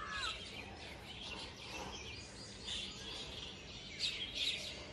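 Small birds chirping and twittering: many short, high calls, some sliding in pitch, busiest near the end, over faint steady outdoor background noise.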